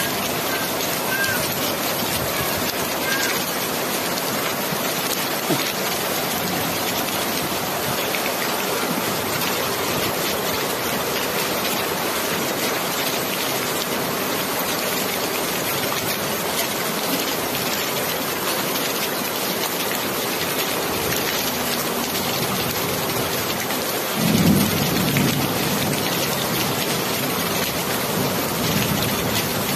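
Steady heavy rain falling. About three-quarters of the way through, a low rumble swells up suddenly and carries on for a few seconds.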